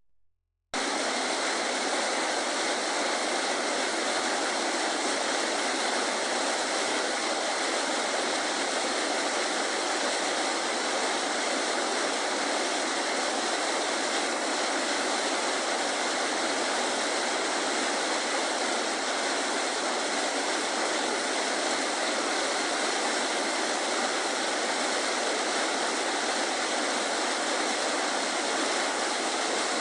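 A creek's running water rushing steadily, beginning just under a second in.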